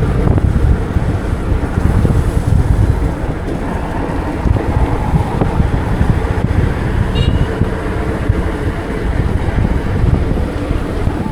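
Wind buffeting the microphone on a moving bike, a loud, steady low rumble, with road traffic beneath it. A brief high-pitched tone sounds about seven seconds in.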